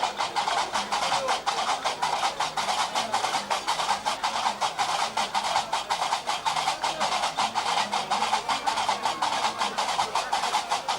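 Gnawa music: iron qraqeb (metal castanets) clacking in a fast, steady rhythm.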